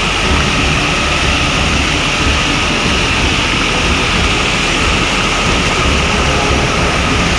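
Steady loud rushing of a rocky mountain river flowing fast over stones, with low gusty rumbling on the microphone.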